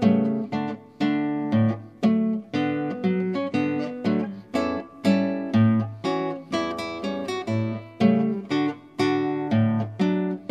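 Background music: acoustic guitar played with plucked notes and strummed chords in a steady rhythm.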